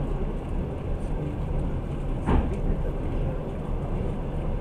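Passenger train running along the track, a steady rumble of wheels on rails heard from inside the carriage, with one brief louder clack a little past halfway.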